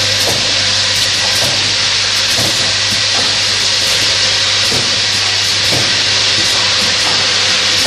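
Small-bottle filling machine running: a steady, loud hiss over a low hum, with faint irregular clicks.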